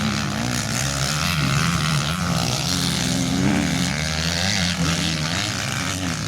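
Motocross bike engines running on the track, their pitch rising and falling with the throttle.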